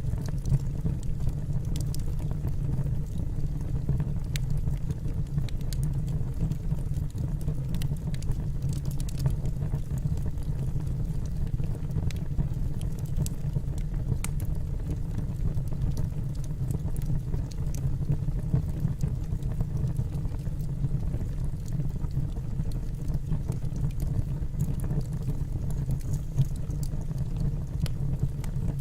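Wood burning in a fireplace: a steady low rumble of flames with frequent small crackles and pops from the logs, scattered irregularly.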